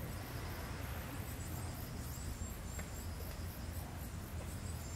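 Insects chirping in a fast, even, high-pitched pulse of about four beats a second, over a steady low rumble.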